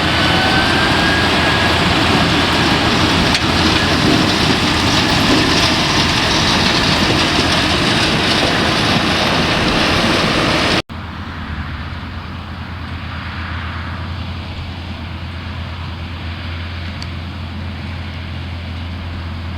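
Tractor and onion-harvester engines running steadily under load. About 11 seconds in the sound cuts off abruptly and gives way to a quieter, steady low engine drone.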